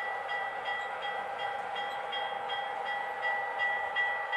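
Bell from an MTH Proto-Sound 2 model locomotive's sound system, ringing steadily at a little under three strokes a second.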